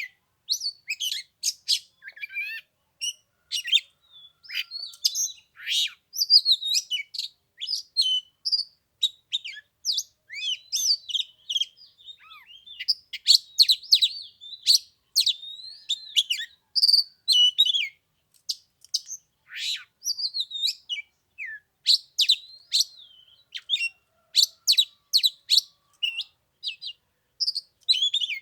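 Oriental magpie-robin singing: a long, varied run of quick chirps and whistled notes with short pauses between phrases.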